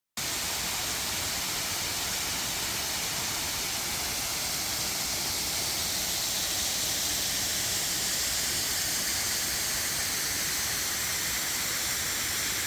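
Waterfall rushing: a steady, even hiss of falling water that starts abruptly just after the start.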